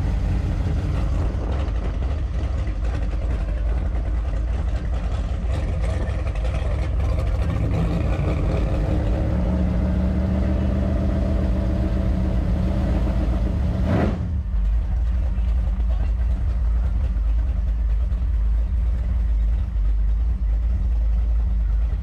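Big-block methanol burnout van's engine running under way, a heavy low rumble with a steady engine tone that climbs a little in the middle. About two-thirds of the way through, the sound changes abruptly: the hiss above drops away and the low rumble carries on.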